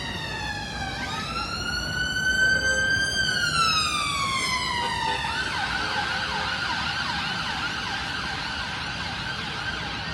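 Emergency vehicle siren in a slow wail, falling, rising and falling again over a few seconds, then switching about halfway through to a rapid yelp.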